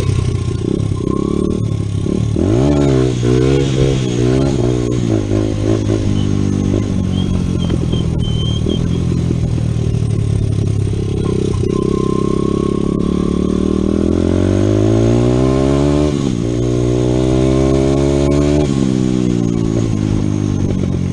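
Honda CRF100 dirt bike's small single-cylinder four-stroke engine being ridden hard, revving up and down with the throttle and gear changes, its pitch climbing and dropping repeatedly, with some mechanical clatter.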